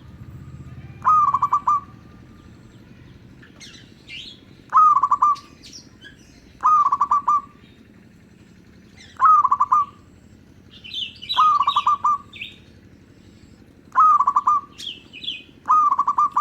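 Zebra dove (perkutut) cooing: short rippling phrases, each under a second, repeated about every two seconds, seven times. Higher, fainter chirps of other small birds fall between the coos.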